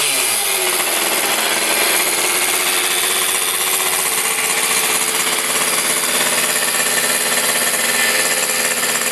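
Kreidler moped's small two-stroke engine, fitted with a mini bike ignition, running at a steady speed after its revs drop in the first half second.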